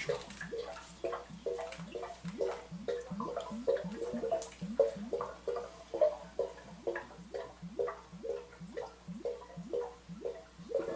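A saw cutting through old pipe fittings with even back-and-forth strokes, about two to three a second, each stroke a short rising scrape.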